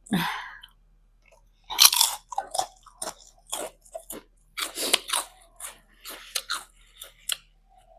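Close-miked crunching and chewing of a crisp food, a run of irregular crunchy bites starting about two seconds in.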